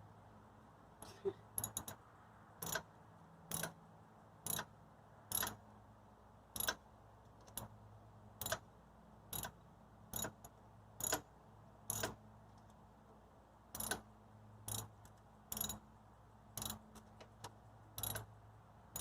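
Ratchet wrench clicking in short bursts about once a second as a bolt is run in and tightened.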